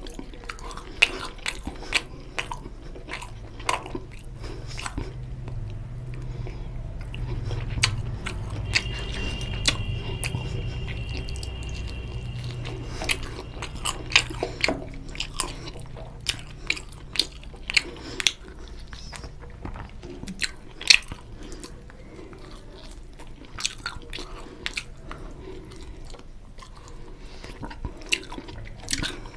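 A person chewing a mouthful of oily mutton curry and rice, with wet lip smacks and many sharp mouth clicks.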